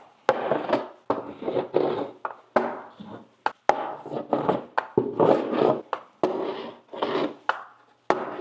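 A bar of snowboard wax rubbed in short, repeated strokes across a snowboard base, about two scraping strokes a second.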